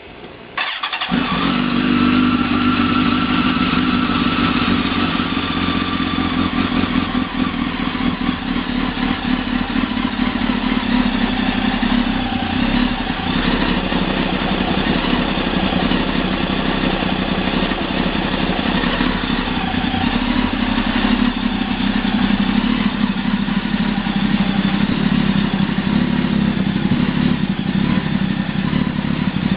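2005 Kawasaki ZX-10R's inline-four engine, breathing through a Muzzy aftermarket exhaust, starting up within the first second and then idling steadily.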